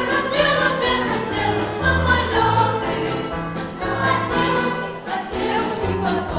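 Pop-symphonic orchestra playing, with voices singing along over recurring low bass notes.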